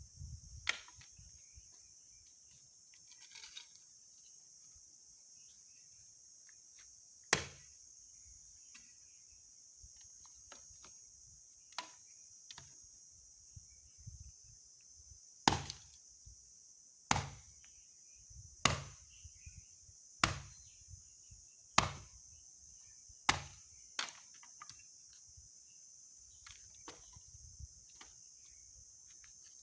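Axe chopping wood: one blow about seven seconds in, then a steady run of six blows about a second and a half apart, with lighter knocks in between. Insects buzz steadily in the background.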